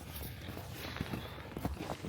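Faint footsteps in snow, a few soft irregular steps.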